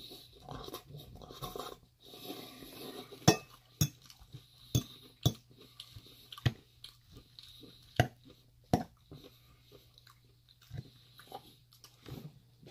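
Close-up crunchy chewing of a mouthful of lettuce salad, then a metal fork stirring the salad in the bowl, with a run of sharp clinks of the fork against the bowl through the middle.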